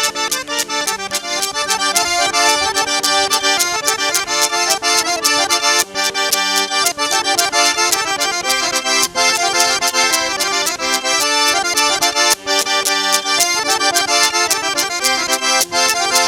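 Accordion music: a lively traditional-style tune of quick, rhythmic notes that plays without pause.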